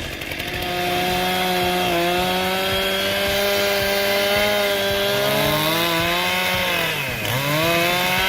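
Chainsaw engine running steadily at high revs, its pitch dropping sharply about seven seconds in and then climbing back up.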